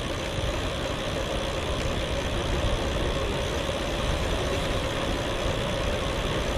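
Steady wind rumble and road and traffic noise while cycling on a town street, with a steady mid-pitched hum.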